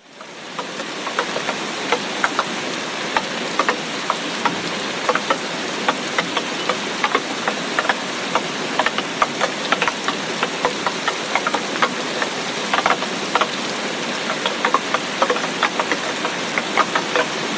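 Heavy tropical rain falling steadily, with many sharp, irregular drop impacts close by. The sound fades back in over about the first second.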